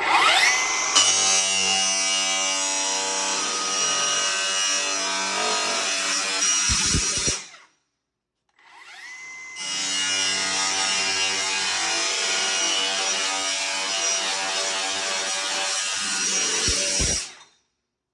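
A power tool cutting sheet-metal HVAC duct, run twice: each time the motor spins up with a rising whine, runs steadily through the cut for about seven or eight seconds, then winds down.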